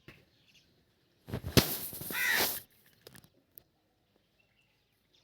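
A single loud, harsh animal call lasting just over a second, starting about a second and a half in, its pitch rising and falling; a few faint clicks follow.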